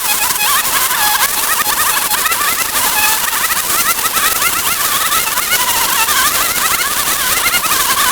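Many small birds chirping at once, short overlapping high chirps in a dense chorus over a steady hiss.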